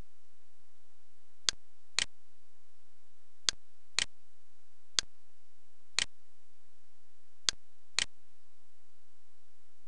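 Computer mouse button clicks: eight short, sharp clicks, three of them in pairs about half a second apart, over a faint steady hiss.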